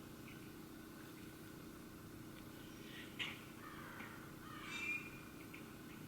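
Wild birds calling: a short sharp chirp about halfway, then a longer, harsher call near the end, over a faint steady hum.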